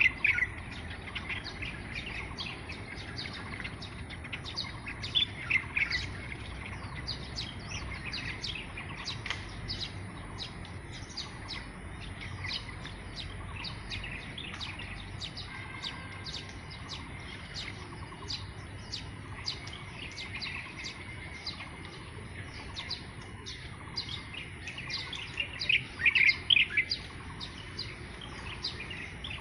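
Birds chirping, many short quick calls repeating steadily, with a few louder calls at the start, about five seconds in and near the end, over a faint steady high-pitched whine.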